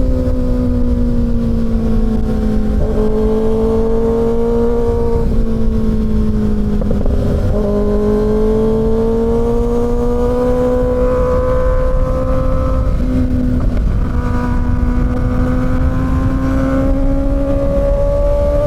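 Kawasaki Ninja ZX-6R inline-four engine under way at a steady cruise, its note slowly rising and falling. The pitch breaks briefly about three, seven and thirteen seconds in, then climbs gently again, over a constant low rumble.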